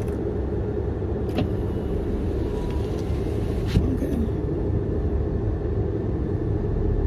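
Car engine idling, a steady low rumble heard from inside the cabin, with two light clicks, one about a second in and one near the middle.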